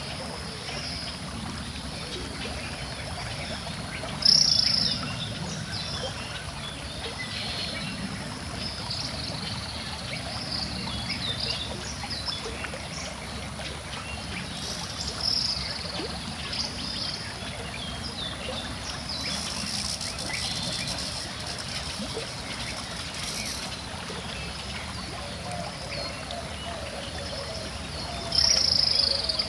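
Calm river water flowing steadily, with birds chirping and singing over it; three louder short bird calls stand out, about four seconds in, around the middle, and near the end.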